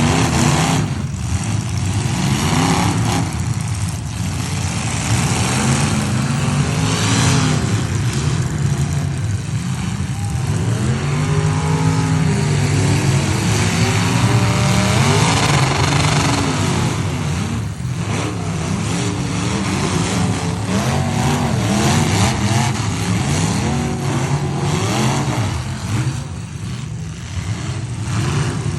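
Several demolition-derby pickup truck engines revving hard and repeatedly, their pitches rising and falling over one another as the trucks drive and ram.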